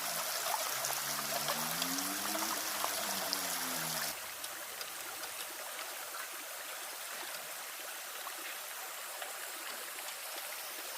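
Steady rushing of running water. A low hum rises and falls in pitch underneath for the first four seconds, then cuts off abruptly, leaving only the water.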